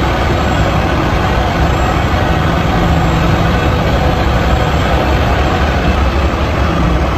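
Dump truck engine running steadily at idle, a low, unchanging rumble.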